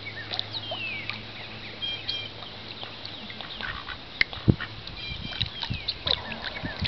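Ducks calling with short, soft quacks, among scattered thin falling chirps.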